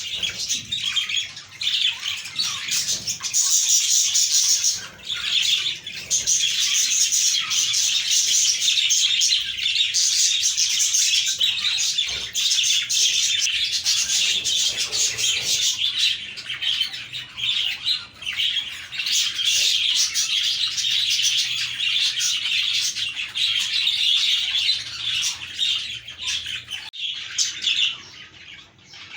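A flock of budgerigars chirping continuously, many calls overlapping, going briefly quieter near the end.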